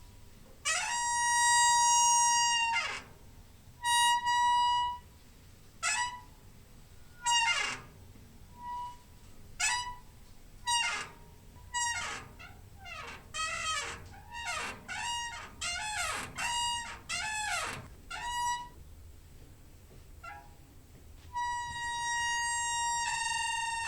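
Squeaky door hinge creaking through a series of separate squeals as the door is swung. Some squeals hold one pitch for a second or two. Others slide, with a quick run of short squeals rising and falling in the middle and a long held squeal near the end.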